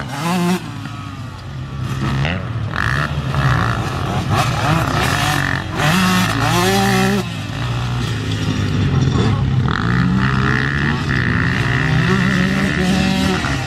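Dirt bike engines revving hard, the pitch climbing and dropping again and again as the riders open the throttle and shift.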